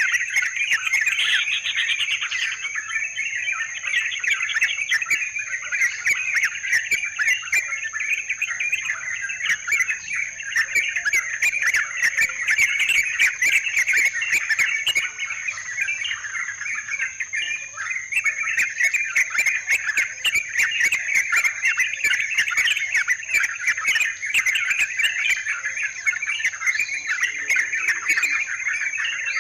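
Yellow-vented bulbuls (trucukan) calling in a dense, continuous chatter of many overlapping bubbly notes, the lure song used to draw the birds in. A steady thin high tone runs underneath.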